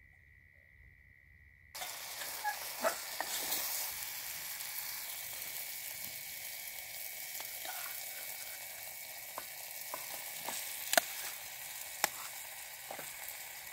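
Tomato-onion sauce sizzling in a steel pot on a portable gas stove while macaroni is tipped in and stirred with a steel spoon, with sharp clinks of spoon on metal every second or two. The sizzling starts suddenly about two seconds in, after a faint steady high tone.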